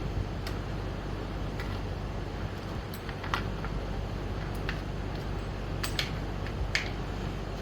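Scattered light metallic clicks and clinks of hand tools, a wrench and socket on the scooter's front axle nut, coming at uneven intervals over a steady background hiss.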